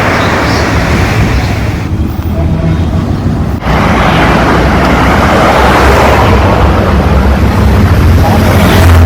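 Motorcycle engine running under way with wind rushing over the microphone; the wind noise drops back for about a second and a half a couple of seconds in.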